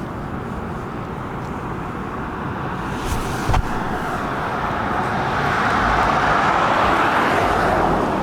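Road traffic: a vehicle passing, its tyre and engine noise swelling in the second half and easing off near the end, over a steady traffic hum.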